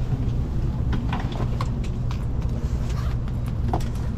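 Steady low rumble of a moving Shinkansen train, with scattered faint clicks and rattles.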